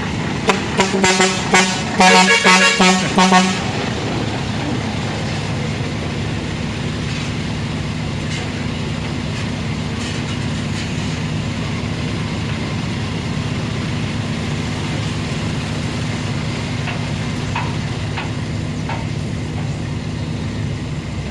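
Truck horn sounding in a quick series of short toots for about three seconds, then the Scania V8 truck engine running steadily.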